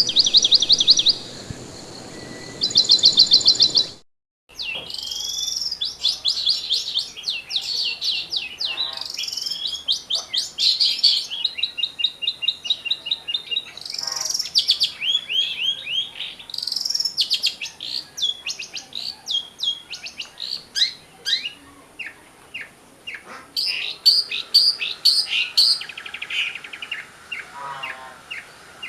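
Long-tailed shrike (cendet) singing a fast, varied stream of chirps, trills and rapid runs of short notes, with a brief break a little after four seconds in.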